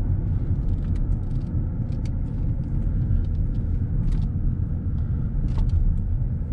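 Steady low rumble of a car driving, heard from inside the cabin, with a few faint light clicks over it.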